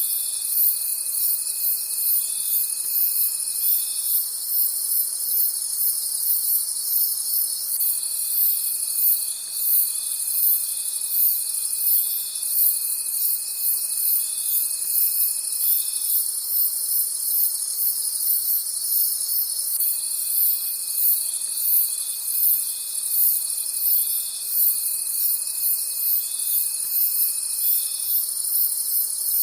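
Night chorus of crickets chirping in a dense, steady, rhythmically pulsing high-pitched chorus. Beneath it runs a thin, steady, lower tone from another insect. That tone breaks off about four seconds in and comes back twice, at about eight and at about twenty seconds.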